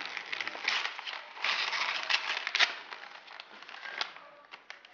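Gift wrapping paper crinkling and tearing in irregular rustling bursts, loudest between about one and a half and three seconds in, then fading to a few scattered crackles.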